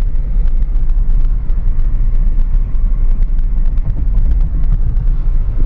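Loud, low rumble of a moving vehicle, with faint rapid ticks over it.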